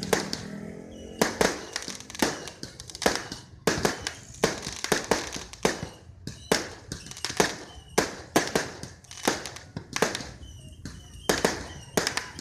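Fireworks going off in a rapid, irregular string of sharp bangs and cracks, about two a second.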